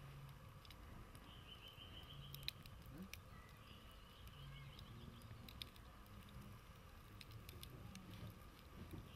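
Faint crackling of a campfire's embers: scattered small pops and ticks, the sharpest about two and a half seconds in. A faint high trill is heard twice in the background.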